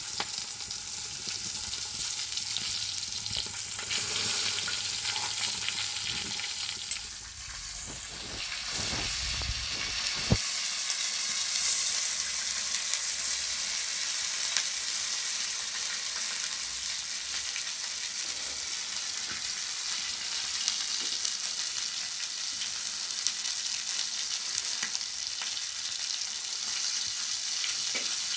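Chicken frying in hot oil, sizzling steadily, briefly quieter about seven seconds in, with a single sharp click a few seconds later.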